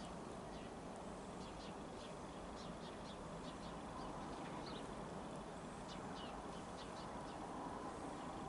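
Birds chirping, short high calls repeated irregularly every second or so, over a steady low hum of outdoor background noise.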